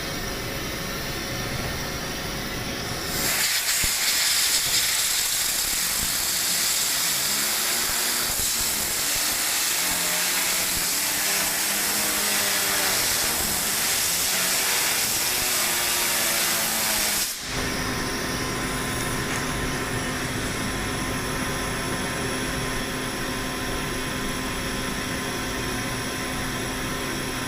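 A compressed-air jet hisses loudly for about fourteen seconds, starting about three seconds in, spinning a 3D-printed nylon gyro cube whose faint whirr wavers up and down beneath the hiss. The air cuts off suddenly, leaving a steady hum.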